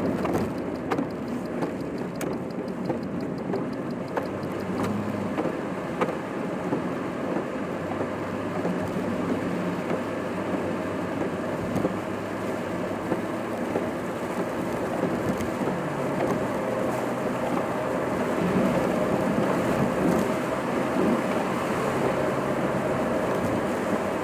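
Car driving, heard from inside the cabin: a steady rush of road and tyre noise with a low engine hum that shifts in pitch a few times.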